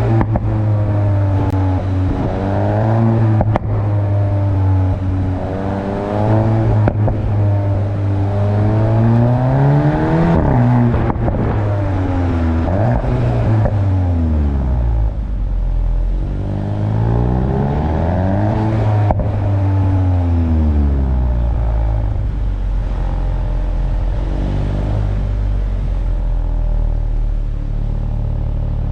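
VW Golf GTI Clubsport's turbocharged 2.0-litre four-cylinder engine, revving up and down through several gear changes, the pitch climbing and then dropping at each shift. For about the last eight seconds it settles into a low, steady drone.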